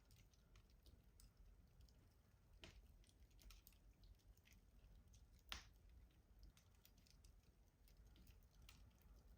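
Wood fire crackling faintly in a rustic wood-burning stove: scattered small pops and clicks, with one louder pop about five and a half seconds in.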